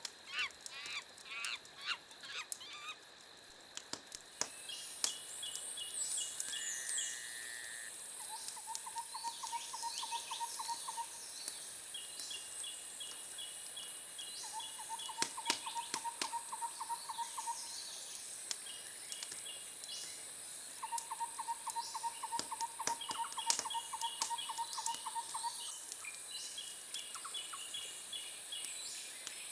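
Wood fire crackling with scattered sharp pops, with birds in the background repeating short, rapid trills, several seconds each, and giving a few chirps.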